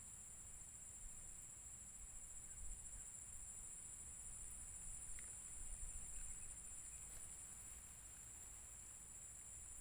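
Steady, high-pitched insect chorus, with a faint low rumble and a few faint clicks.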